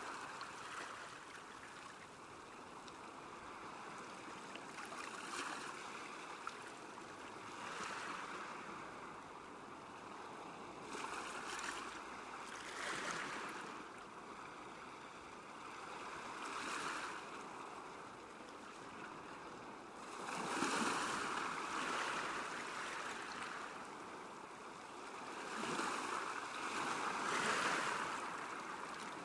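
Small lake waves lapping and washing on the shore, swelling every few seconds, with the biggest washes about twenty seconds in and near the end.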